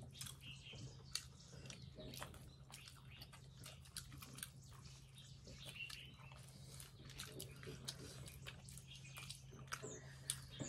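Faint eating sounds of people chewing momo dumplings, with scattered small clicks and taps, over a low steady hum.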